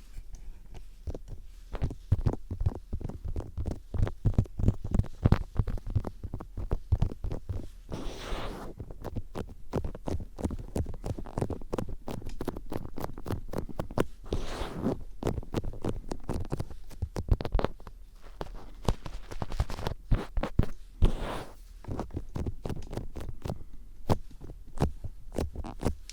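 ASMR ear cleaning with a Phillips screwdriver tip scraping and clicking in close against a microphone's ear, in a rapid, irregular patter of scratches with dull thumps beneath. Longer rustling swishes come in several times.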